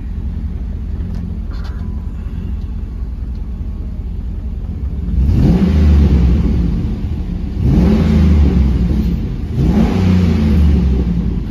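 2005 Chevy SSR's 6.0L LS2 V8 idling steadily, then revved three times, about five, seven and a half and nine and a half seconds in, each rev climbing in pitch and dropping back to idle.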